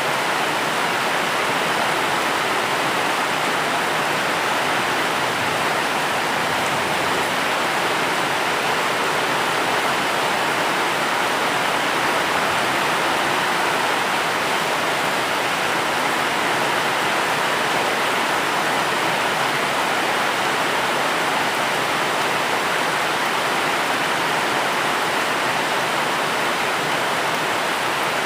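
Steady rainfall: an even, unbroken hiss with no single drops or other events standing out.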